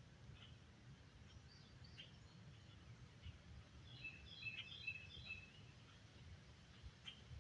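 A songbird singing faintly: one phrase of several quick, short high notes about four seconds in, with a few scattered single chirps around it, over a steady low rumble.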